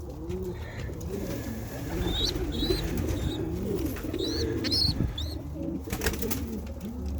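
Several domestic pigeons cooing, their low coos overlapping one another, with a few short high chirps about two and four and a half seconds in.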